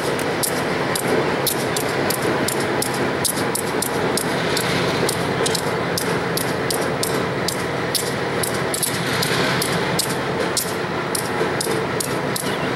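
Slow-moving train: a steady rumble with rapid, irregular sharp clicks.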